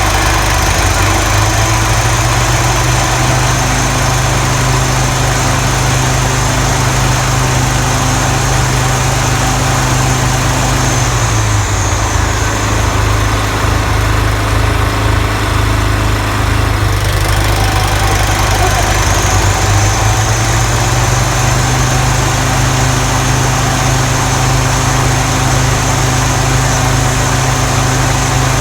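Toro TimeMaster 30-inch walk-behind mower running on a test run after its deck spindle lower ball bearings were replaced and the deck belts set to correct tension. The engine speeds up about a second in, drops back about 11 seconds in, speeds up again around 20 seconds and drops back near the end, with a high whine that rises and falls along with it.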